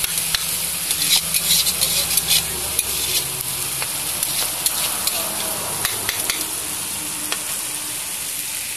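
Masala-coated chicken frying in a steel kadai with a steady sizzle, while a spatula stirs it, scraping and clicking against the pan. The clicks come thickest in the first few seconds, then thin out.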